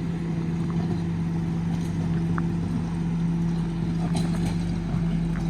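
Allis Chalmers tractor engine running at a steady, unchanging speed while pulling a box blade.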